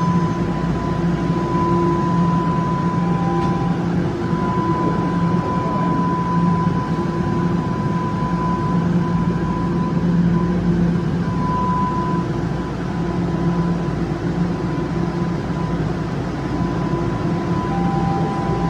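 Toronto TTC subway train in a station: a steady running noise with a low hum and a high whine held at one pitch. There is no clear speeding up or slowing down.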